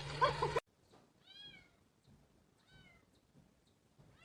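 A stretch of clicks over a low hum cuts off suddenly, then a cat meows faintly twice, a second and a half apart.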